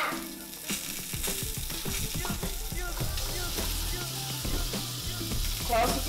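Sausage patties frying in a skillet: a steady sizzle with scattered small pops.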